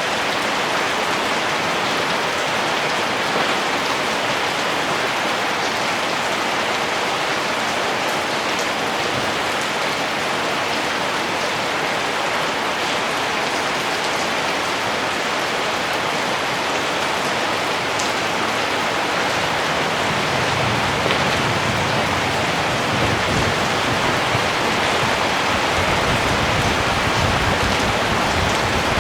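Steady rain, a dense even hiss of falling drops. About two-thirds of the way through, a low rumble rises under it and carries on.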